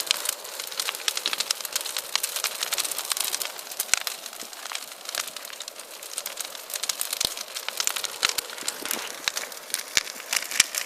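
Large bonfire burning: a dense, irregular crackle over a steady hiss, with occasional louder pops.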